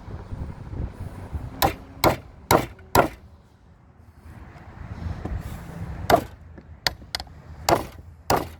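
Hand-struck blows on timber: four sharp strikes about half a second apart, then after a short lull several more spaced strikes near the end.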